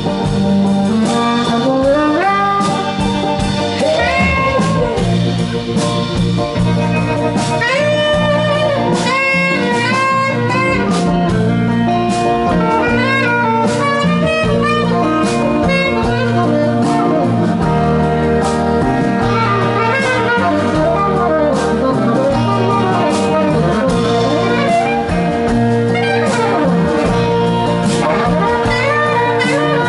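Live folk band playing an instrumental break: a saxophone solo winding over guitar and a steady accompaniment.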